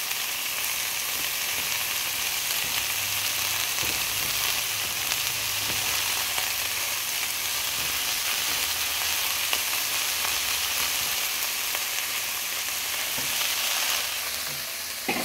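Mung bean sprouts sizzling as they sauté in hot oil in a small aluminum pot: a steady frying hiss.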